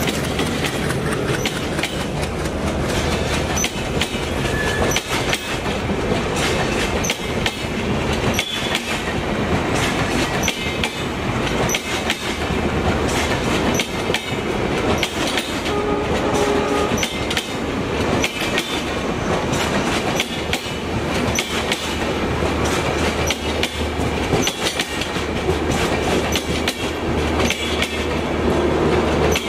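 Passenger coaches rolling past at close range, their wheels clattering over the rail joints in a running clickety-clack, over a low steady hum.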